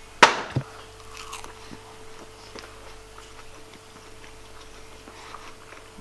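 A sharp knock, a second knock about half a second later, then a microwave oven running with a steady hum, with faint small ticks over it.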